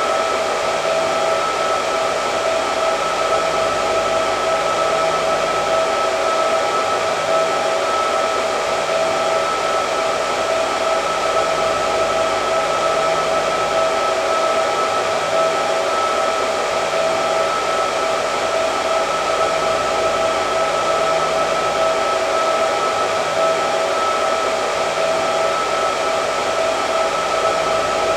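Hair dryer running steadily: a constant rush of air with a steady whine from its motor.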